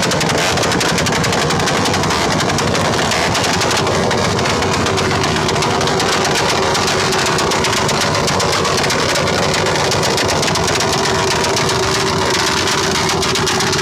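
A vehicle engine running loudly and steadily, with a fast pulsing rattle throughout and a steady hum joining about four seconds in.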